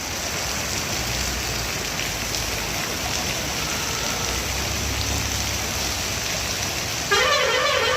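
Heavy rain and rainwater making a steady, even rushing hiss. Near the end there is a brief, louder pitched sound.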